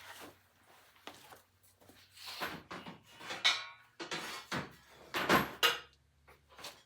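Metal parts being handled and worked loose: a series of separate clunks and scrapes, a few with a short metallic ring, as a part is worked out of a riding mower's steel fender.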